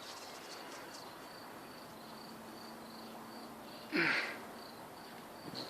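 Faint cricket-like insect chirping, a high pulse repeating a few times a second. About four seconds in, a brief louder sound with a sliding pitch cuts in.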